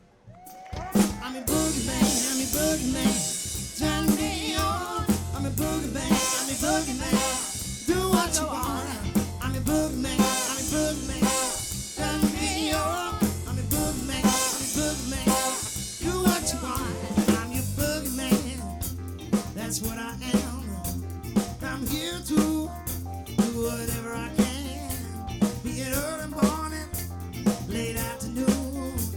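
Live soul band playing a song: a drum kit keeping a steady beat under a bass line and a lead vocal. The sound drops out for a moment right at the start, then the music comes straight back in.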